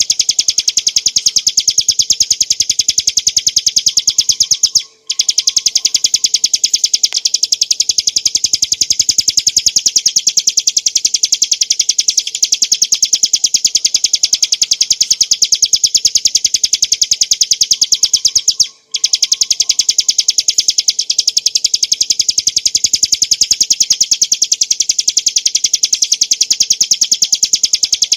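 Ciblek gunung (bar-winged prinia) singing a fast, continuous run of high repeated notes. The run breaks off briefly twice, about five seconds in and again about nineteen seconds in.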